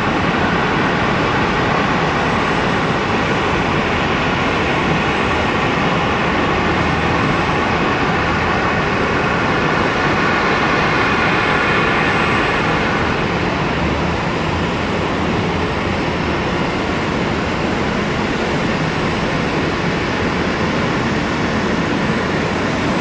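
Boeing 767 jet engines running: a loud, steady rumble with a whine over it that fades out about halfway through.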